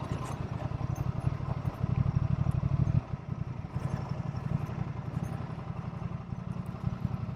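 Honda Transalp XL750's parallel-twin engine running as the motorcycle is ridden, a low pulsing exhaust note. It grows a little louder about two seconds in, then eases off suddenly around three seconds in as the throttle is rolled back.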